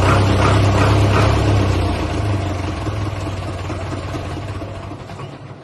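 Restored Ford tractor's engine running with a steady low drone, fading away over the last few seconds.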